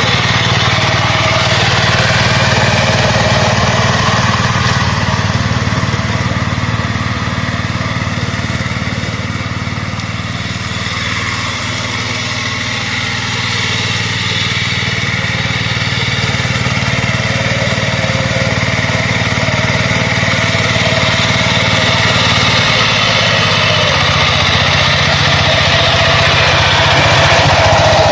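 Tractor engine running steadily, its note shifting slightly a little over twenty seconds in.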